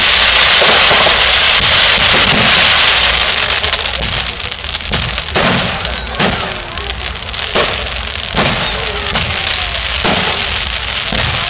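Fireworks going off: a dense, loud crackling hiss for the first few seconds, then a run of separate sharp bangs about once a second.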